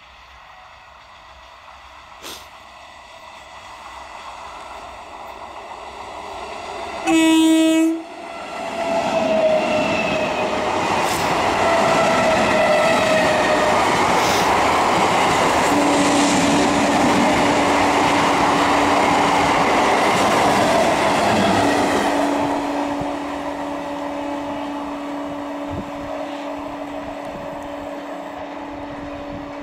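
Indian conventional EMU electric train approaching and sounding a short, loud horn blast about seven seconds in, then passing close by with a loud rush of wheels on rails and whining tones that fall in pitch. The noise eases after about 22 seconds as the train moves away, leaving a steady tone over the fading rumble.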